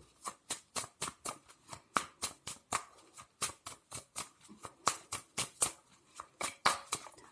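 A deck of tarot cards being shuffled by hand: a rapid run of crisp card slaps and flicks, about four a second.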